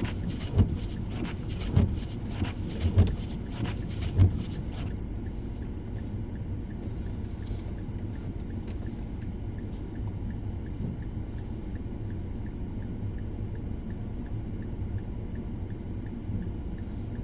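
Steady low vehicle rumble. In the first five seconds there are dull knocks, about one every second and a bit.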